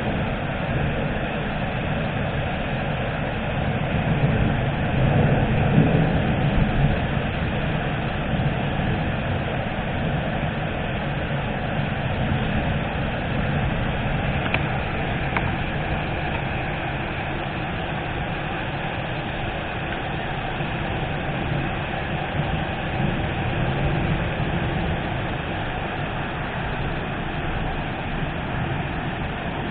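Thunderstorm: a steady rushing noise with a low rolling rumble of thunder, swelling louder about four to seven seconds in.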